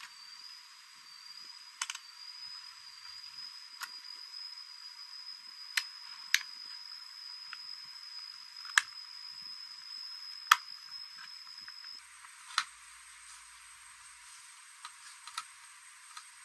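Sharp single clicks, about one every two seconds, over a faint steady high whine that stops suddenly about twelve seconds in.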